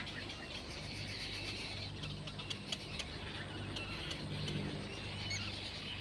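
Birds chirping and twittering over a steady low hum, with scattered faint clicks.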